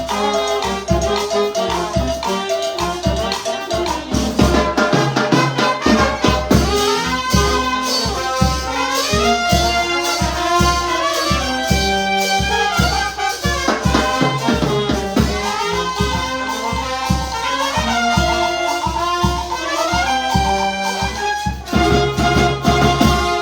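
Brass band music, trumpets leading a melody over a steady drum beat. It cuts off suddenly at the end.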